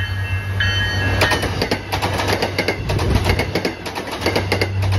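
MBTA commuter rail train with bilevel coaches passing close by, its wheels clacking rapidly over the rail joints from about a second in, over a steady low hum. A few high steady tones sound before the clacking starts.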